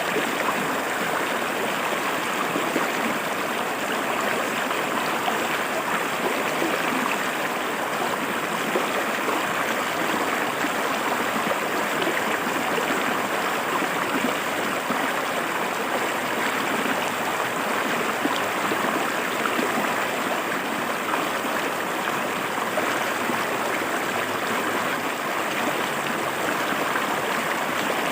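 River water flowing and splashing over rocks: a steady, unbroken rushing with small gurgles.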